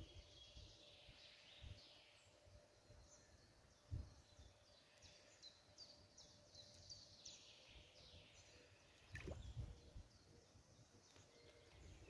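Near silence with faint birdsong: scattered short high chirps, and two soft low thumps about four and nine seconds in.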